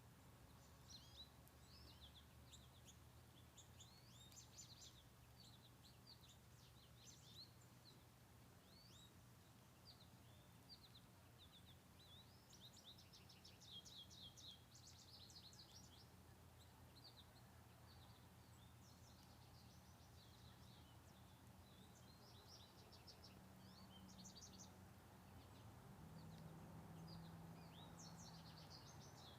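Faint songbirds twittering: clusters of rapid, high, quick chirps throughout, over a low steady hum.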